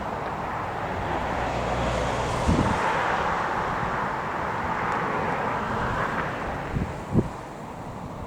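Aircraft engine noise, a steady rushing that swells and then fades, with low thumps of wind buffeting the microphone.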